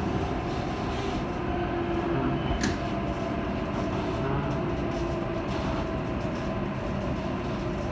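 E7/W7-series Hokuriku Shinkansen train heard from inside the car as it slows alongside a station platform on arrival: a steady running noise with a faint steady tone and a single light click a little before three seconds in.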